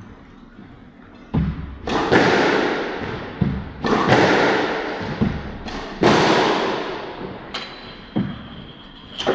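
Squash ball being hit hard in a squash court: a series of sharp thwacks, several in quick racket-then-wall pairs, each ringing out in the court's echo.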